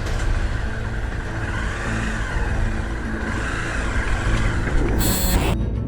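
A motor vehicle under way: steady engine rumble with road and wind noise. About five seconds in comes a brief, loud rush of noise, and a beat of music begins at the very end.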